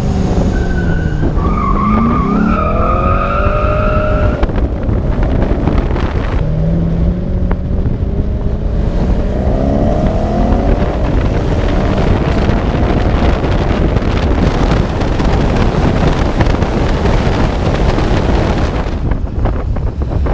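V8 car engines revving hard, the pitch climbing and dropping as they accelerate through the gears in the first half. After that comes a loud, steady rush of engine and wind noise at speed.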